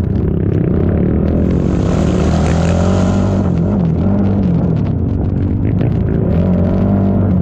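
ATV engine running hard in a cross-country race, its pitch rising and falling as the throttle is worked, with a rushing hiss for a couple of seconds about one and a half seconds in.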